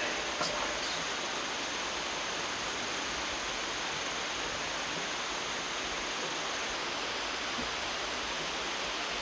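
Steady, even rushing hiss with no distinct events, like rain, wind or running water. A faint click comes about half a second in.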